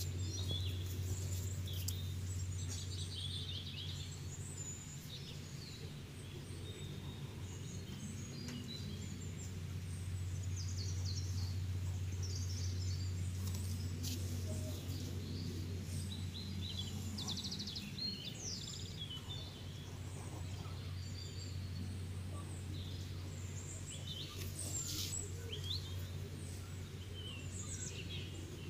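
Birds chirping and twittering in short, scattered calls over a steady low hum.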